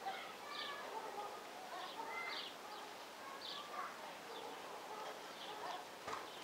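Small birds chirping in short calls about once a second, with faint voices in the background.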